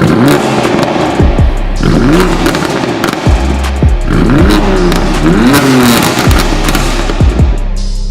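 De-catted BMW M3's twin-turbo straight-six revving through its exhaust, the pitch climbing and falling several times, over music with a steady thumping beat.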